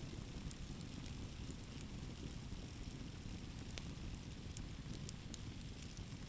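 Campfire burning, a steady low rush of flames with scattered sharp crackles and pops of burning wood.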